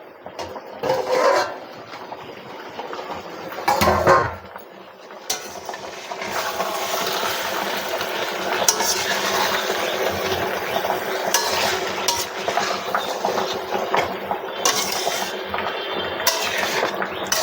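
Metal cooking pot and utensils handled: a couple of clatters, the loudest about four seconds in, likely the lid coming off the pot. From about six seconds in, a ladle stirs through the simmering chicken curry with continuous scraping and metal clinks.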